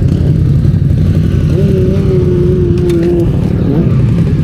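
Motorcycle engine running steadily with a heavy low rumble. A steady higher tone sounds over it for about two seconds in the middle.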